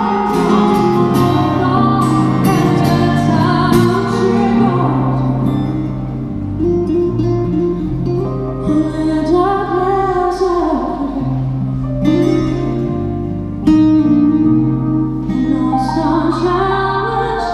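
Live song: a woman singing a melody with vibrato over guitar accompaniment, the bass notes changing every second or two.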